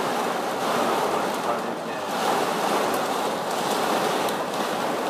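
Torrential rain beating on a car's roof and windshield, heard from inside the car as a steady, heavy hiss that swells and eases a little.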